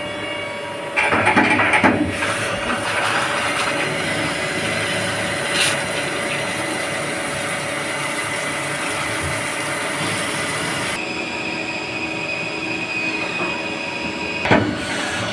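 CNC machine running with a steady high whine over a mechanical rumble. A louder noisy stretch comes about a second in and lasts about a second, and a sharp knock comes near the end.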